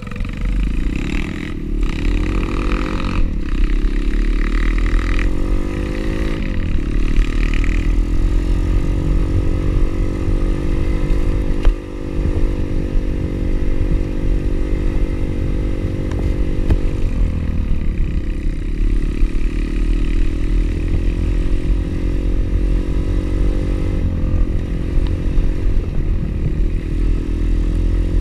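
Pit bike engine under way. It revs up through the gears over the first several seconds, then holds a steady speed. About two-thirds of the way through it eases off and picks up again. A heavy low rumble of wind on the microphone runs underneath.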